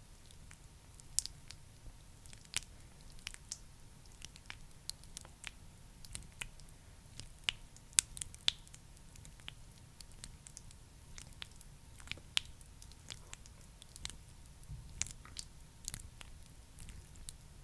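Wet, sticky squishing and irregular crackling clicks of a thick skincare product being worked.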